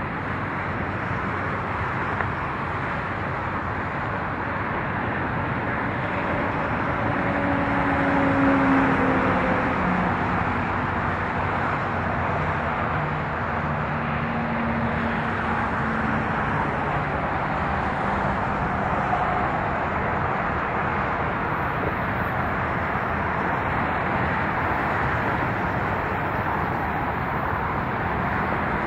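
Freight train rolling past: a steady rumble of wheels on rail, with a faint engine drone that swells about eight seconds in and sags slightly in pitch.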